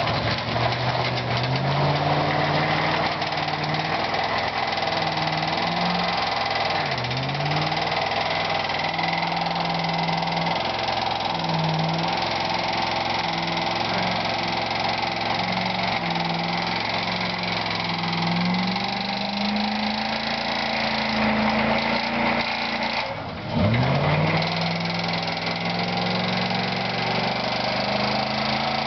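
Ford Crown Victoria police car's V8 held at high revs through a long burnout, its speed wavering, over a steady hiss from the spinning tyre. The engine is knocking and failing. Its revs sag briefly about seven seconds in, then drop sharply and climb back a few seconds before the end.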